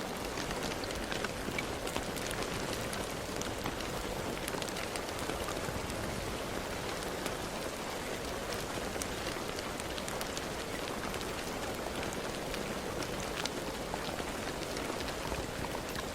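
Steady rain falling, with individual drops ticking on a surface over a constant hiss.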